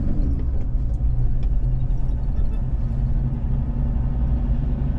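Vehicle engine and road noise heard from inside the moving vehicle: a steady low rumble with a few faint rattles.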